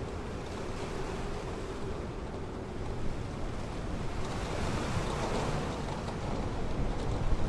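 Ocean waves breaking and washing up a beach, a steady rush of surf that swells about halfway through and builds again near the end.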